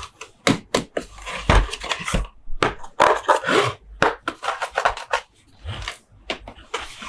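Plastic toy monster trucks being handled close to the microphone: a string of irregular taps and clicks, several a second, with a short sliding tone a little past three seconds in.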